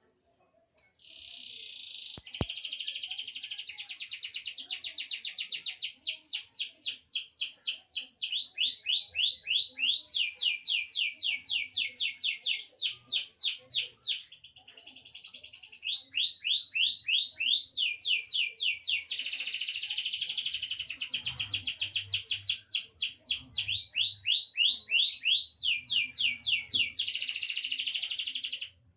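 Young grey domestic canary singing in long, rapid trills, switching between runs of faster and slower repeated notes. It pauses briefly about a quarter of a minute in, then sings on and stops abruptly near the end.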